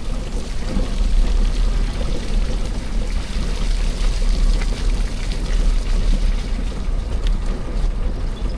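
Steady rushing noise with a strong low rumble while moving along an outdoor lane, with a few faint high bird chirps over it.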